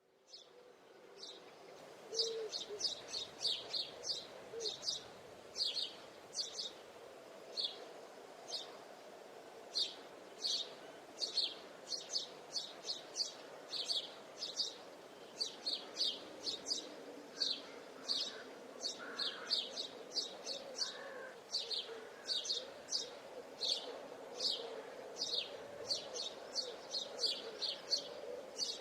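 Small forest songbirds chirping: short, high chirps repeated in quick runs, over a steady lower background din. It fades in over the first couple of seconds.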